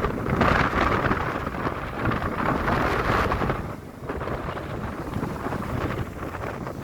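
Gusty wind buffeting the microphone in stormy seaside weather, a rumbling noise that rises and falls and eases briefly a little before four seconds in.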